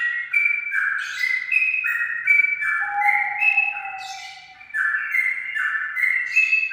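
Straw-headed bulbul (cucak rawa) singing: loud, clear, flute-like whistled notes that step up and down in pitch, given in repeated phrases with a brief pause about four and a half seconds in.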